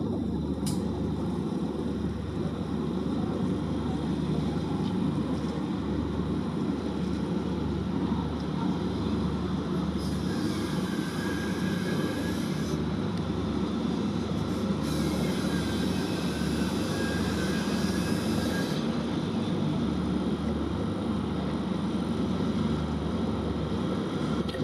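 A vessel's diesel engine running with a steady low rumble. Two stretches of higher hiss come and go between about ten and nineteen seconds in.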